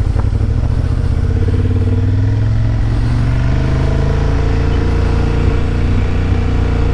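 Motorcycle engine running steadily while under way, its pitch rising slightly over the first couple of seconds and then holding.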